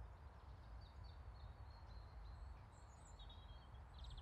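Near silence outdoors: faint, scattered songbird chirps over a low, steady rumble.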